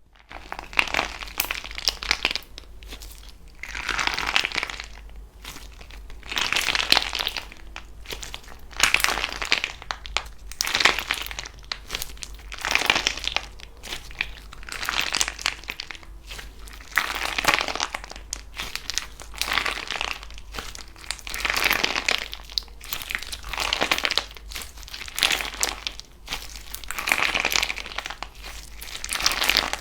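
Slime being squeezed and pressed by hand in repeated strokes, each a burst of fine pops and crackles, about one every two seconds.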